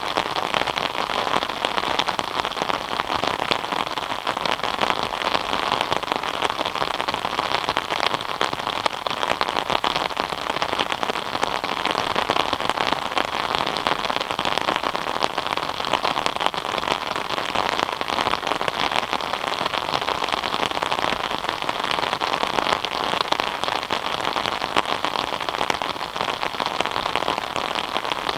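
Steady rain falling: an even hiss made of many small drop impacts, with no change in strength.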